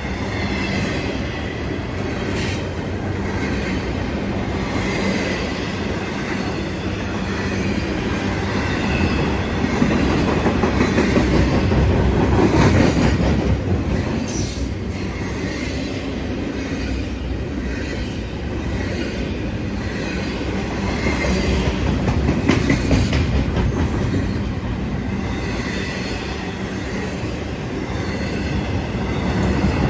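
CSX train's cars rolling past on the rails with steady rumbling and clickety-clack, some faint wheel squeal, and the noise swelling twice.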